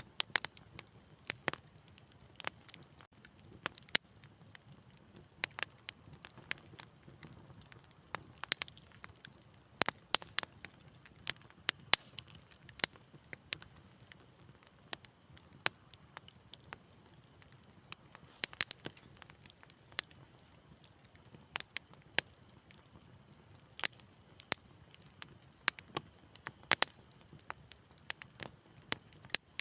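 Wood fire crackling: irregular sharp pops and snaps, a few every second, over a faint low hiss.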